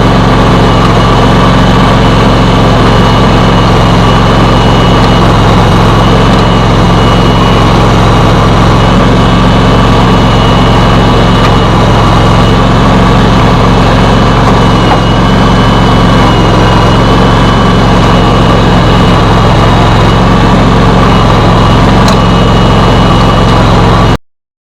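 John Deere X700-series garden tractor engine running steadily just after starting, then stopping abruptly near the end.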